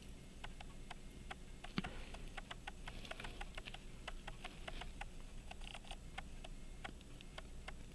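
Small, sharp metal clicks and taps of tweezers and a screwdriver working on a pocket watch movement, irregularly spaced, with one louder tap about two seconds in.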